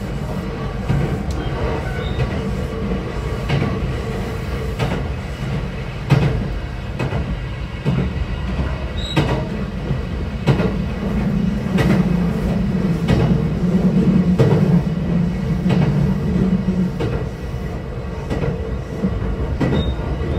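Running sound of a local electric train, heard from inside the passenger car: a steady rumble of wheels on rail with a constant hum and short clicks about once a second. The rumble swells about halfway through and eases off near the end.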